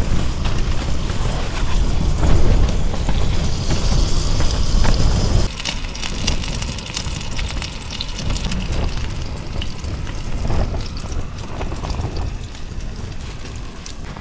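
Burgers sizzling and crackling in a frying pan on a small gas camping stove, a dense patter of fine crackles. For the first five seconds or so, wind rumbles heavily on the microphone; after an abrupt drop in level the sizzle is heard more clearly.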